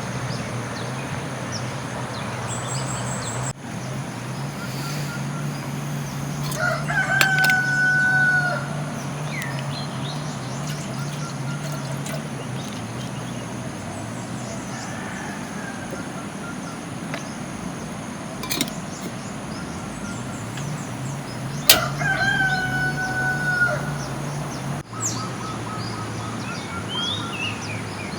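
A rooster crowing twice, about fifteen seconds apart, each crow a couple of seconds long with a held note that drops at the end. Behind it runs a steady rush of water and a low hum.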